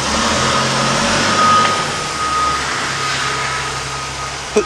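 Steady machinery noise: a low hum and an even hiss with a faint high whine over it, running without a break.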